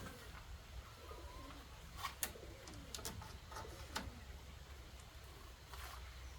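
Dove cooing softly in low, rounded calls, with a few sharp clicks or knocks about two and four seconds in.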